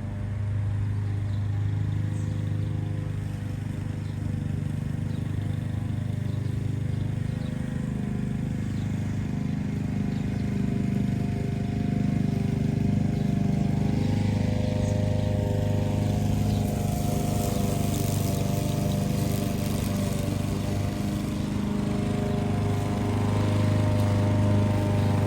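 Lawn mower engine running steadily, a little louder near the end.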